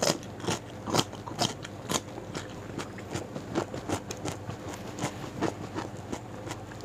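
Close-miked chewing of crunchy raw vegetables with sambal leunca: crisp crunches about twice a second for the first couple of seconds, then softer, quicker bites.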